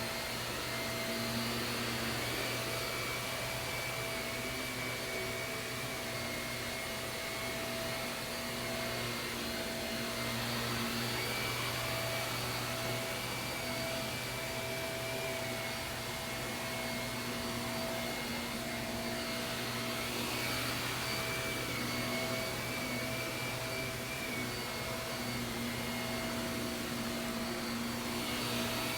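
Shark vacuum cleaner running steadily over carpet, its motor whine wavering slightly in pitch as it is worked back and forth.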